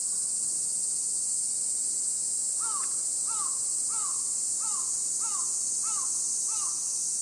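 Steady high-pitched insect chorus. Partway through, a bird gives a series of seven short arched calls, evenly spaced about two every second.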